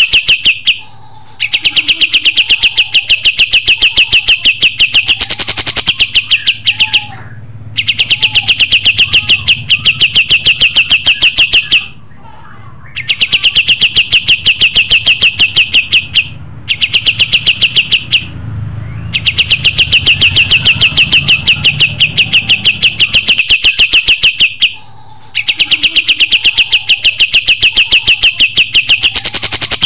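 Kapas tembak songbird singing vigorously: long, very rapid trills of high notes lasting several seconds each, repeated with short breaks between phrases, over a faint low hum.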